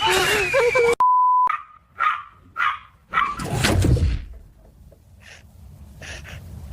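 A short steady beep about a second in, then a dog giving four quick barks or yips in a row, followed by a louder, noisier burst and fainter scattered sounds.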